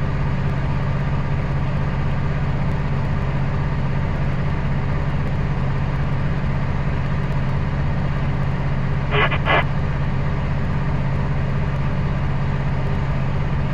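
Kenworth C500 truck's Cummins diesel engine droning steadily under way. A short double chirp sounds about nine seconds in.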